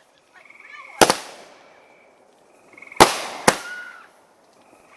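Alien Adventure consumer firework going off: sharp bangs about a second in and again about three and three and a half seconds in, each trailing off. A faint whistling runs between the bangs.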